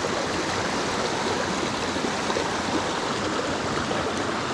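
Small mountain stream, a rushing steady flow of water over rocks and riffles.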